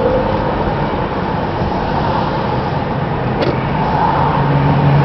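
A car driving through town, its engine and tyres making a steady road noise with a low hum, heard from inside the cabin. A brief click about three and a half seconds in.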